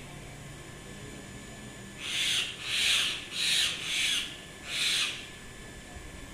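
A bird calling five times in quick succession, each call about half a second long.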